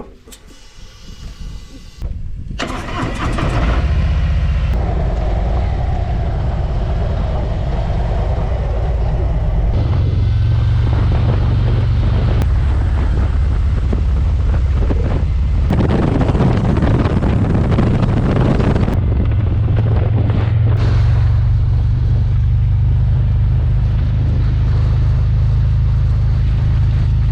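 Harley-Davidson Road King's V-twin engine starting about two seconds in, then running steadily with a deep rumble.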